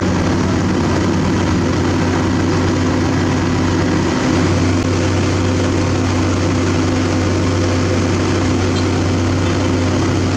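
A heavy diesel engine on the construction equipment running steadily and loudly, a low, even drone.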